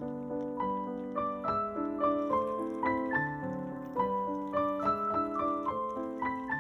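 Background piano music: a flowing melody of quick notes over lower held notes, picking up in pace about half a second in.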